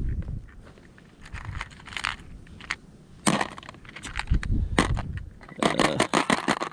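Rummaging through fishing tackle: irregular clicking, rattling and clattering of small tackle and boxes being handled, busiest near the end, with a few low bumps.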